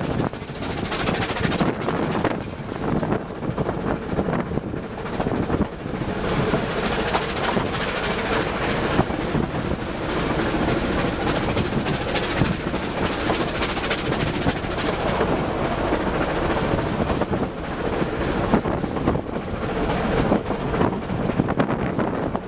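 Narrow-gauge steam train on the move, hauled by Vale of Rheidol tank engine No. 8: a steady, continuous rattle and clatter of the train running along the line.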